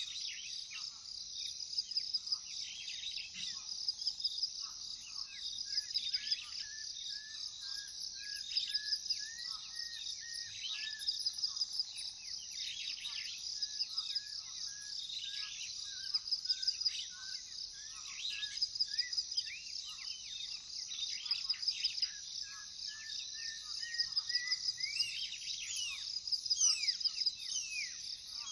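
A steady, pulsing chorus of crickets, with many birds calling over it in short, falling notes. Through the middle, one bird repeats a long series of short notes that climb in pitch near the end.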